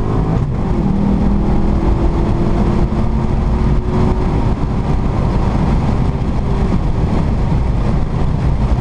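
Car engine pulling hard at highway speed, heard from inside the car, with heavy road and wind noise. The engine's steady tone fades out about halfway through, leaving mostly a rushing noise.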